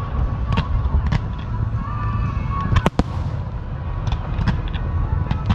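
Fireworks going off: a rapid scatter of sharp cracks and pops over a steady low rumble, with one louder bang just under three seconds in.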